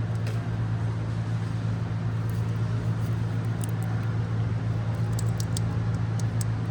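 A steady low hum with an even background of noise, and a few faint scattered clicks.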